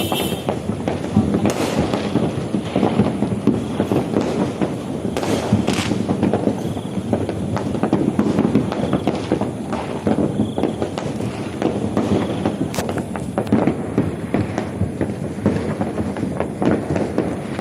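Fireworks going off in a dense, continuous crackle of many small bangs, with a few louder reports standing out.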